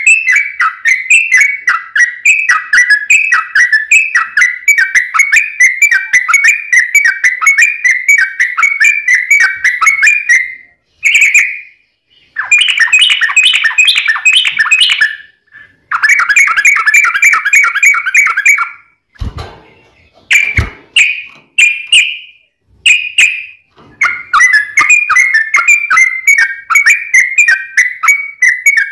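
Yellow-vented bulbul (trucukan) singing its long, rapid chattering song: runs of quick repeated notes with short pauses between phrases. About two-thirds of the way through, during a break in the song, there are two brief thumps.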